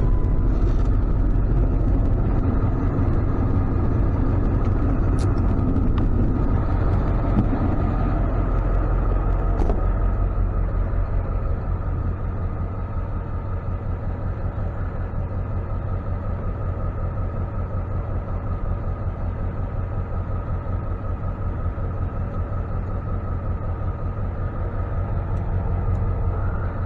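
Ford F-550 tow truck driving along, a steady low engine and road rumble with a faint whine; the level eases off a little about eleven seconds in.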